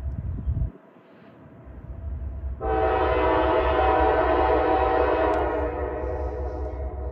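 Diesel locomotive horn sounding one long blast of several held tones, starting about two and a half seconds in and fading out near the end, over a steady low rumble of the approaching freight train.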